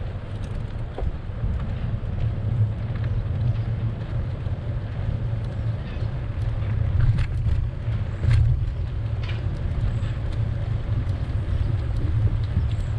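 Wind buffeting the microphone of a camera on a moving bicycle: an uneven low rumble, with a few faint ticks in the middle.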